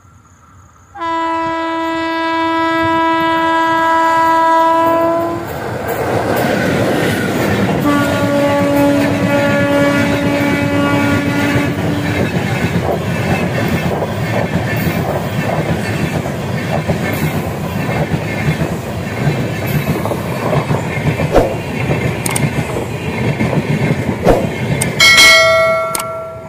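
Passenger train passing at speed. Its locomotive horn sounds one long blast as it approaches, then a second, lower-pitched blast as it goes by, while the coach wheels rumble and clack over the rail joints. A short horn blast sounds near the end.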